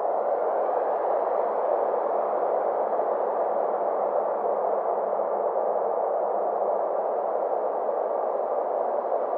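Synthesized ambient space drone: a steady, muffled hiss centred in the midrange whose brightness slowly swells and fades, over a faint low hum.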